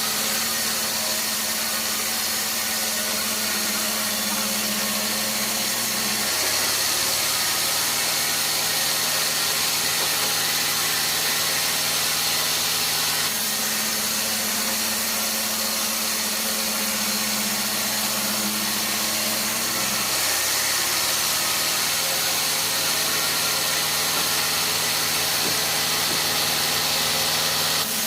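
Sawmill machinery running steadily. Its low hum drops in pitch about six seconds in, rises again about seven seconds later, and repeats that cycle.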